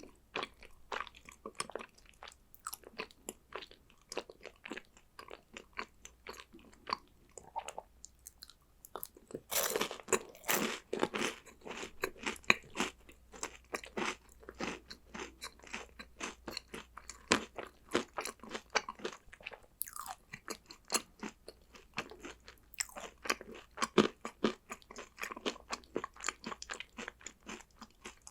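A person crunching and chewing chocolate snacks: a steady stream of small crisp crunches, with heavier bursts of crunching about ten seconds in and again near the end.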